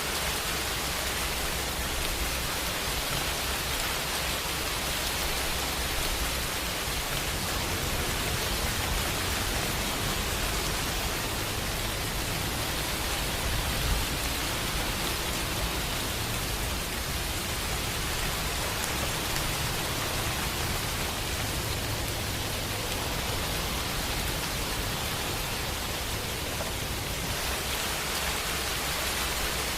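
Steady rain, an even hiss with a low rumble underneath and one slightly louder moment about fourteen seconds in.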